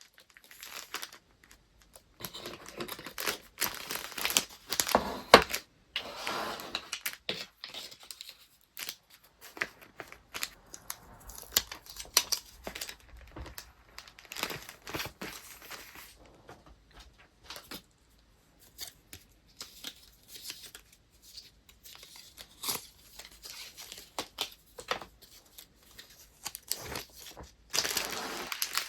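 Paper and wrapping materials being handled while packing: uneven rustling, crinkling and tearing with small taps and clicks, coming in spells with short pauses between.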